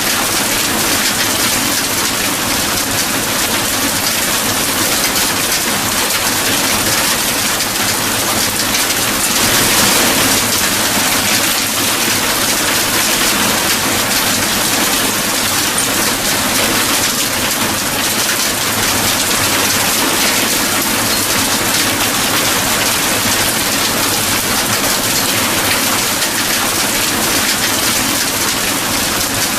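Steady heavy rainfall, a dense even hiss of drops on a surface, swelling slightly about ten seconds in.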